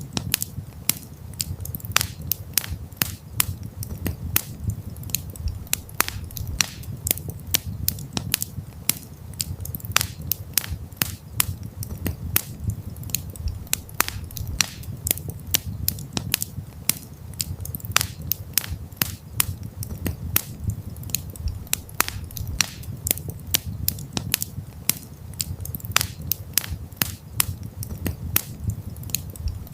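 Wood campfire crackling: many irregular sharp pops and snaps over a low steady rumble of the flames.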